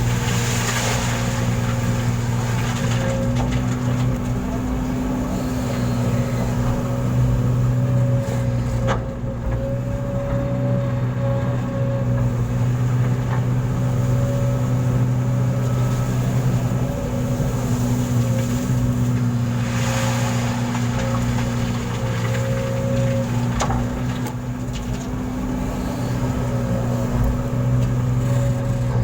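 Truck engine running at a steady pitch, a constant droning hum, with brief hissing near the start and again about twenty seconds in.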